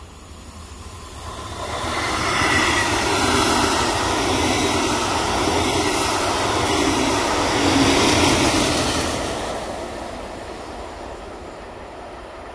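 Red double-deck regional train passing close by at speed, its wheels rumbling and hissing on the rails. It swells in about a second and a half in, stays loud for several seconds as the coaches go by, and fades away over the last few seconds.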